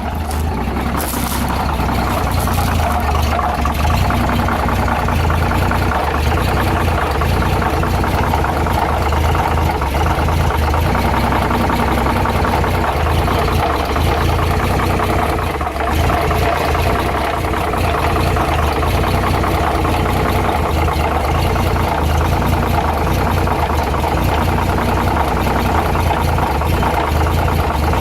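Dodge WC52 truck's flathead inline-six engine running steadily, with a fast, even ticking clatter over the engine note.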